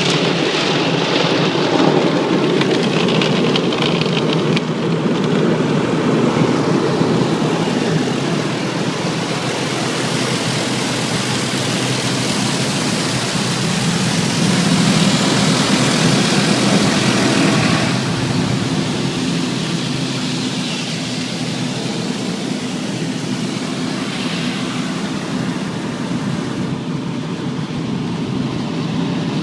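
Tunnel car wash air dryers blowing over the car, heard from inside the cabin: a steady rushing roar that swells between about 10 and 18 seconds in, then eases slightly.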